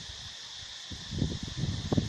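Outdoor ambience: a steady high-pitched hiss, with irregular low rumbling gusts of wind on the microphone that come in about halfway through.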